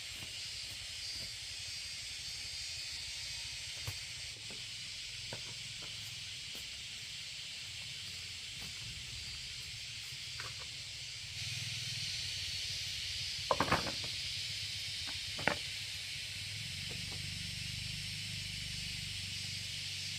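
Steady hissing noise that gets a little louder about eleven seconds in, with a few light knocks, the sharpest about two thirds of the way through.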